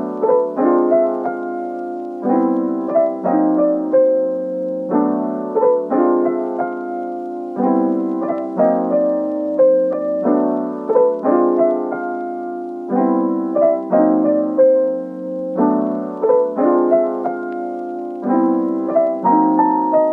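Background piano music: a soft melody over chords struck every second or two.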